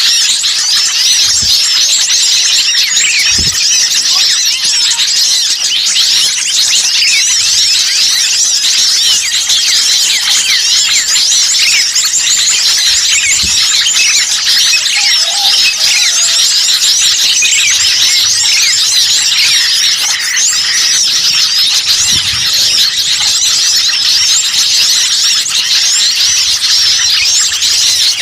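Dense, busy chorus of many small songbirds chirping and twittering rapidly and continuously, overlapping calls, the kind of noisy flock chatter used as a bird-lure call to draw wild birds in.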